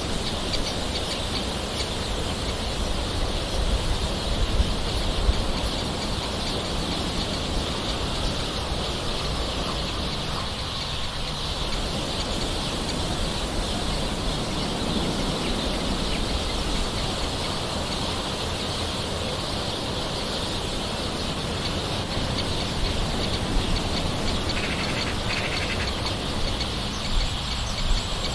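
Gentle rain falling steadily, an even hiss, with birds calling in the background.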